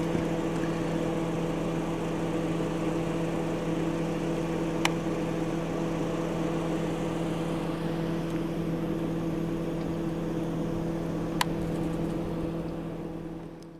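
A vehicle engine idling with a steady low hum, broken by two sharp clicks about six seconds apart. The sound fades out at the very end.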